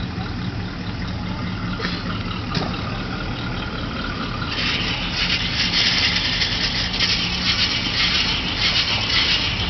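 A station wagon's V8 engine idling with a steady low hum. About four and a half seconds in, a loud rushing hiss joins it as the car moves off.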